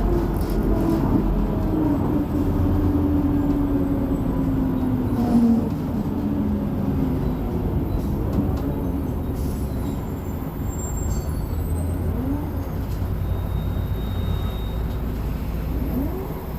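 Mercedes-Benz O500MA articulated bus's diesel engine and ZF Ecomat 6 automatic gearbox running on the move, with a whine that falls in pitch over the first five seconds or so, then steady running.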